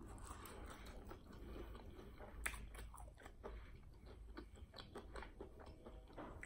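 Faint, close-miked chewing of fried chicken wings, with small wet mouth clicks and one sharper click about two and a half seconds in.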